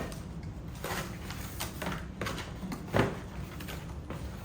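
Soft knocks and rustling from handling cart parts during assembly, with one louder knock about three seconds in.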